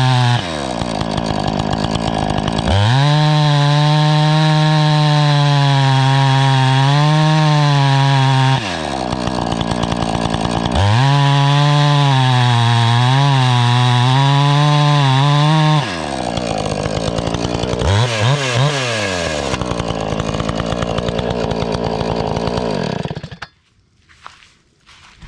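Two-stroke chainsaw with a freshly sharpened chain cutting into a log's end grain at full throttle in two long passes, its note wavering under load and dropping back to a lower speed between cuts. After a short blip of the throttle it idles, then is switched off near the end.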